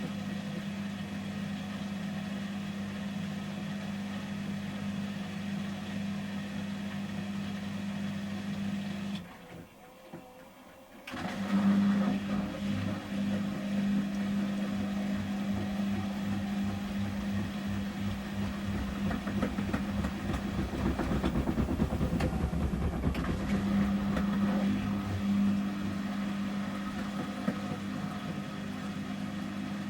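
Samsung Series 5+ AI SmartThings washing machine in its intermediate spin at 800 rpm: the drum motor hums steadily, cuts out for about two seconds, then starts up again louder. A rapid, even pulsing from the turning drum builds and eases before it settles back to a steady hum.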